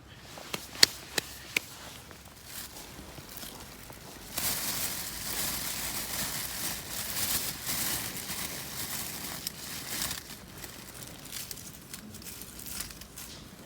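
Camping gear being handled by hand: three sharp clicks in the first two seconds, then a long stretch of rustling and crinkling from about four seconds in.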